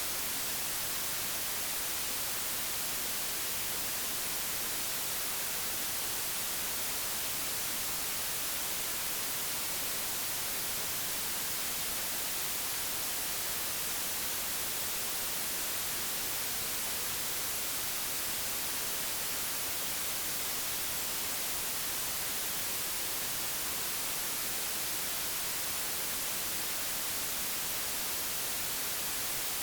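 Steady, unchanging digitally generated white noise, a constant hiss with no events in it.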